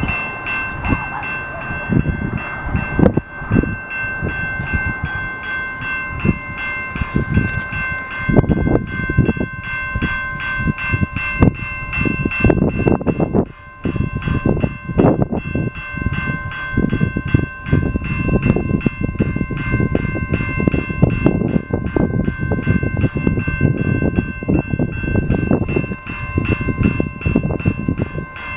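Canadian Pacific freight train rolling past, its wheels clattering and knocking over the rails, with a steady high ringing held over it. There is a brief lull about halfway through.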